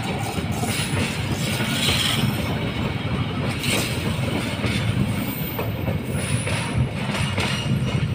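A train passing close by on rails: a steady rumble of wheels on track, with repeated knocks as the wheels cross rail joints.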